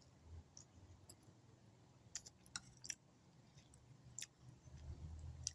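Faint chewing of a mouthful of noodles and rice, with a few soft, scattered clicks.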